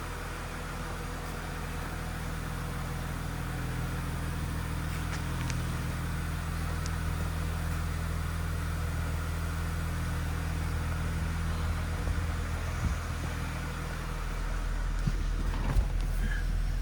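2001 Mercedes SLK320's 3.2 L V6 engine idling steadily, its low hum growing a little louder near the end, with a few light knocks.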